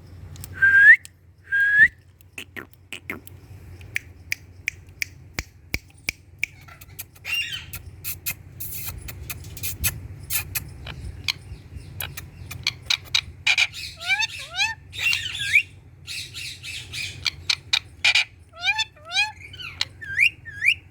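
Indian ringneck parakeet squawking and chattering: two short rising calls at the start, then many sharp clicks, and repeated quick rising chirps in the second half.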